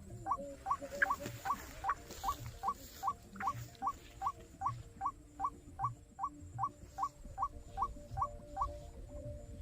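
White-breasted waterhen calling: a fast, regular run of short rising squeaky notes, about three a second, which breaks off about a second before the end.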